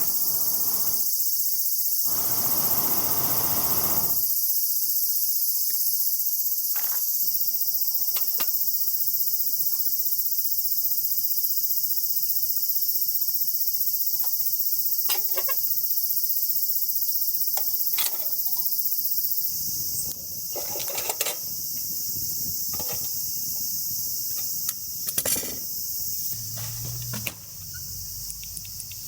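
A steady, high-pitched chorus of summer insects. Scattered small clicks and knocks sound over it, with two short rustles in the first few seconds.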